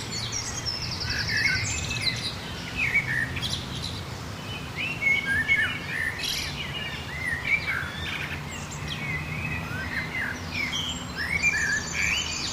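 Several birds singing and chirping at once, many short overlapping calls and whistles. A fast buzzy trill comes twice, about a second in and near the end.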